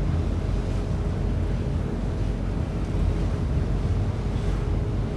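Passenger ferry's engine running with a steady low drone, with wind noise on the microphone.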